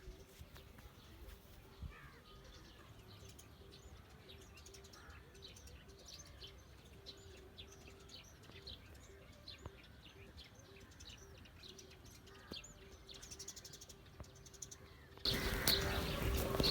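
Birds chirping faintly, many short high chirps one after another, over a faint steady hum. About fifteen seconds in, a much louder jumble of noise cuts in abruptly.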